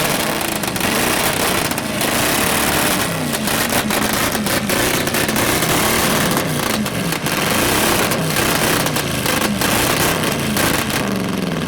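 Car engine with stacked exhausts and no catalytic converters revved hard again and again, its pitch rising and falling. A rapid crackle of exhaust pops and bangs runs through it, from an exhaust that is spitting flame.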